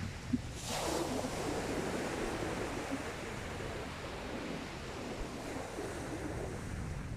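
Sea waves breaking and washing on the beach, a surge starting about half a second in and then a steady wash of surf, with some wind on the microphone.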